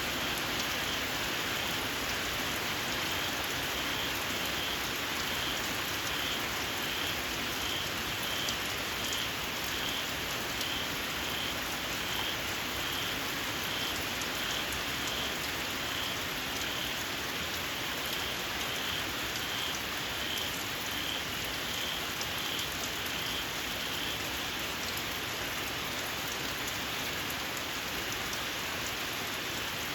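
Steady rain falling, with a small frog repeating a shrill, high chirp about one and a half times a second, which stops about three-quarters of the way through.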